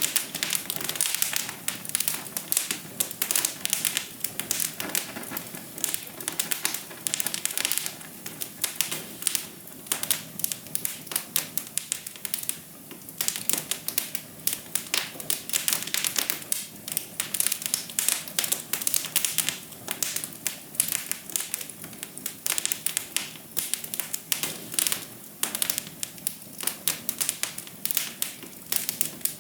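Wood fire crackling: dense, irregular snaps and ticks over a soft steady hiss.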